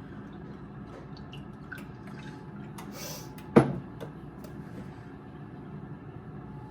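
Kitchen handling sounds: a few light clicks and a brief hiss, then a single sharp knock about three and a half seconds in, over a steady low hum.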